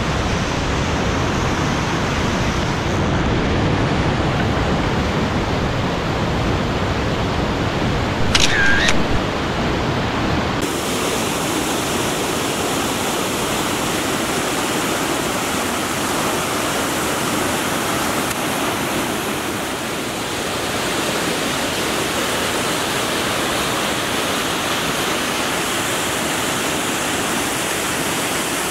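Steady rush of the Maligne River's water pouring through the canyon. About eight seconds in, a brief high squeak falls quickly in pitch. After that the rush sounds thinner and hissier.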